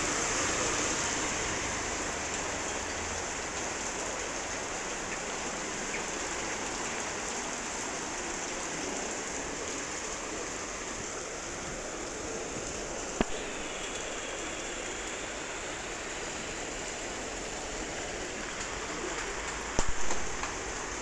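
Steady rain falling and splashing on a wet paved street. A sharp knock about two-thirds of the way in, and a short burst of louder knocks just before the end.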